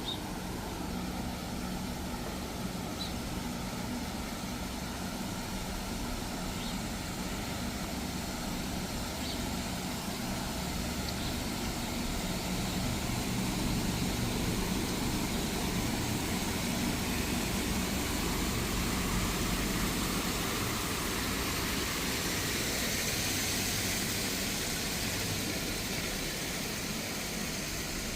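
City street traffic: car engines running steadily, with a louder swell of tyre hiss as a vehicle passes about halfway through.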